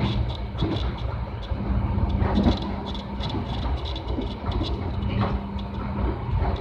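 Passenger train: a steady low rumble under a constant hum, with frequent light clicks.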